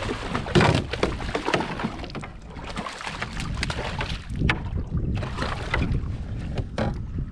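Water splashing and sloshing beside a canoe, with wind on the microphone and scattered short knocks and clicks from handling in the boat.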